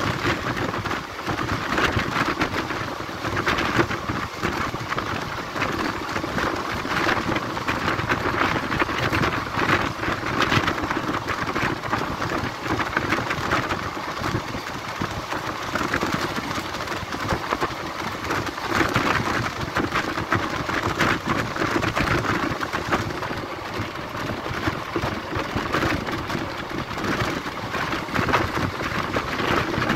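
Running noise of a moving express passenger train heard from an open coach doorway: a steady rush and rumble of the wheels on the rails with irregular clatter, and wind buffeting the microphone.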